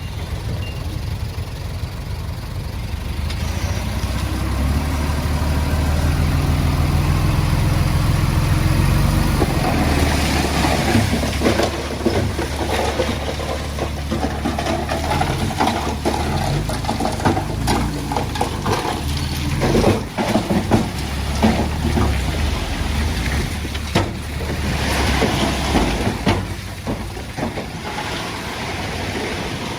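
Heavy diesel earthmoving machine working: the engine note climbs as it takes load over the first several seconds, then keeps running under a run of clanks, knocks and scraping, the sound of earth and rock being moved.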